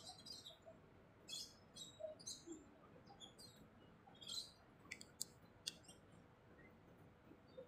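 Faint chirps of small birds in short scattered bursts, with two sharp ticks a little after five seconds in.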